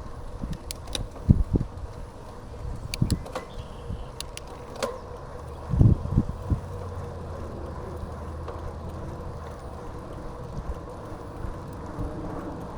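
Riding a bicycle on a paved path: a steady rumble of the tyres with wind on the microphone, and now and then a knock or rattle as the bike goes over bumps, with a few sharp clicks.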